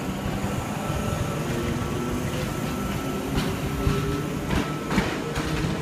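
V-set double-deck intercity electric train pulling out past the platform: steady running noise with a low hum, and a few sharp wheel clicks over the rails in the second half.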